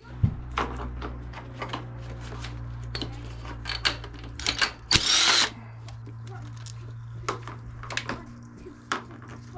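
A power tool's electric motor running steadily, starting right at the beginning and running on, with scattered clicks and knocks over it and a short loud hiss about five seconds in.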